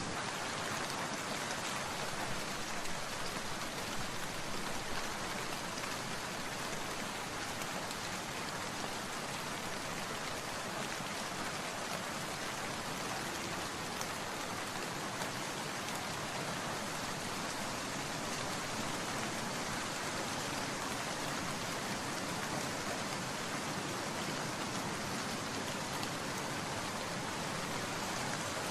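Steady rain falling, an even hiss of many drops pattering on surfaces.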